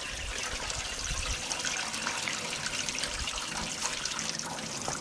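Water pouring and splashing steadily as rinse water runs through the clothes in a hand-powered washing machine.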